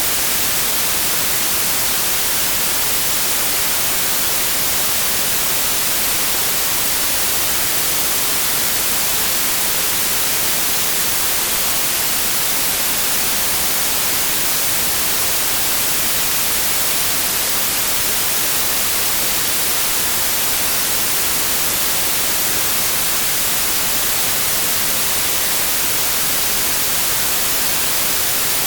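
Steady generated white noise: an even, unbroken hiss that is strongest in the high end, with no changes or events.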